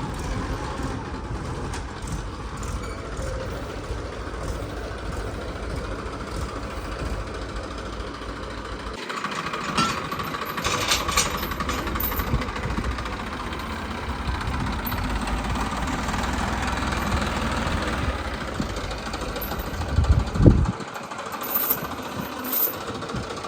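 Tractor diesel engine running steadily under load, with an abrupt change in the sound about nine seconds in and a few loud knocks near the end.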